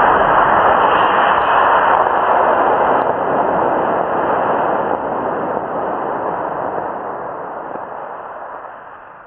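F-20 model rocket motor igniting with a sudden onset and burning as a loud, steady hiss that fades gradually over several seconds as the rocket climbs away.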